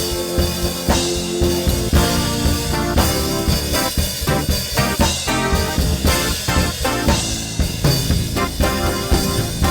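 Live gospel worship band playing an instrumental passage, sustained chords over a steady drum-kit beat.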